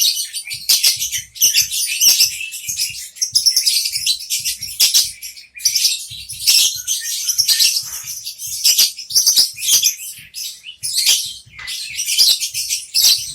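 Female lovebird in breeding condition chattering: a fast, nearly unbroken stream of shrill chirps with brief pauses.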